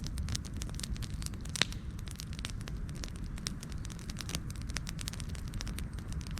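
Wood fire burning with irregular crackles and pops over a steady low rumble, one pop louder than the rest about one and a half seconds in.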